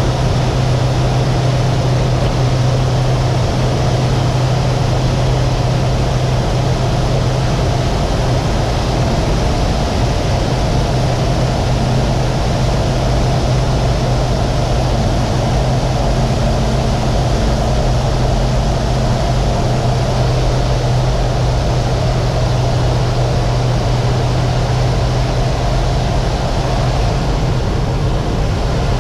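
Aircraft engine running with a loud, steady drone and a strong low hum.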